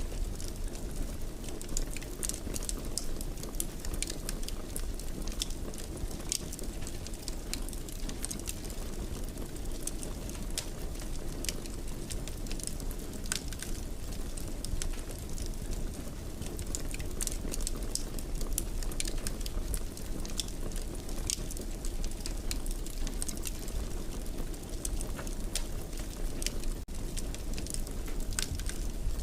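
Fire burning in a fireplace: a steady low rumble with frequent small, irregular crackles and pops.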